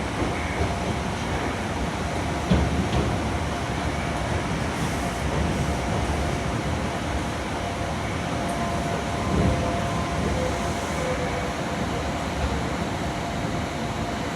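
Iyotetsu 700 series electric train running at low speed, a steady rail rumble with a couple of brief thumps from the wheels, about two and a half and nine seconds in.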